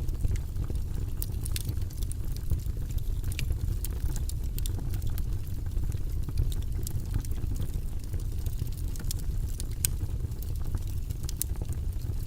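Fire in a fireplace crackling steadily, with frequent sharp pops and snaps scattered irregularly over a low rumble.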